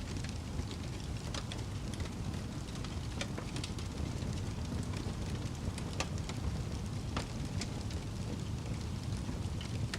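Wood fire crackling in a fireplace: irregular sharp pops and snaps, a few clearly louder than the rest, over a steady low rumble of burning.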